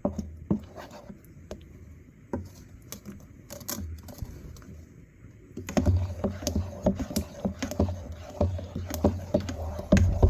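Clinking, knocking and scraping of kitchen utensils and cookware being handled, sparse at first and much busier from about halfway through.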